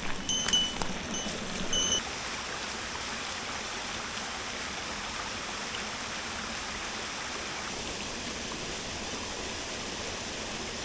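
Mountain stream flowing steadily. A few short high tones and clicks sound in the first two seconds.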